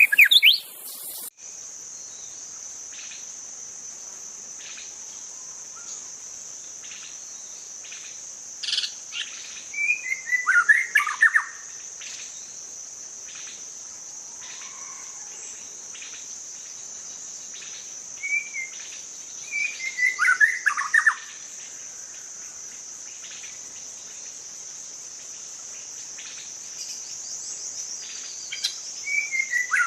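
White-rumped shama singing three loud whistled phrases about ten seconds apart, each sliding down in pitch, with faint short chips between them. A steady high-pitched insect drone runs underneath.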